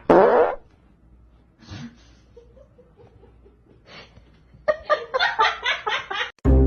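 A short, loud blurt right at the start, then a run of rhythmic laughter near the end.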